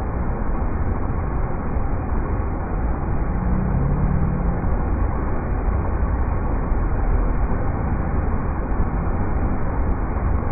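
River rapids rushing steadily, a low, dense roar of water.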